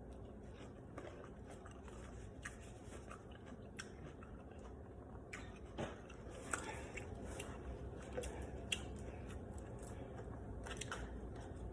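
Quiet chewing and crunching of a mouthful of salad with croutons. The faint crackly bites get busier from about halfway through.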